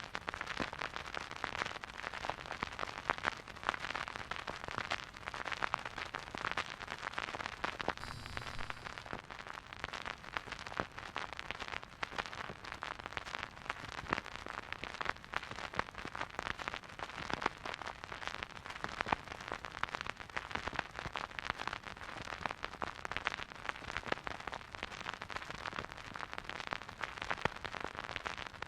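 Vinyl record surface noise from a silent groove: a dense, continuous crackle of small pops and clicks, with a brief change in tone about eight seconds in.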